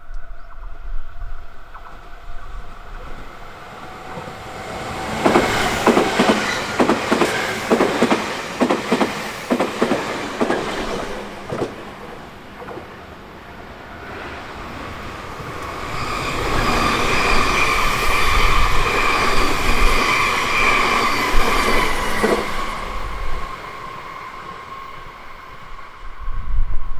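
Electric trains on the Nankai Main Line passing close by. About five seconds in comes a quick run of wheel clatter over the rail joints lasting some six seconds. Later a second, louder pass brings a steady high whine that fades out after about six seconds.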